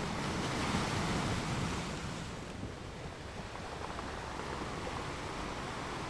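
Ocean waves washing onto a shore: one surge swells during the first two seconds, then eases off into a steady wash.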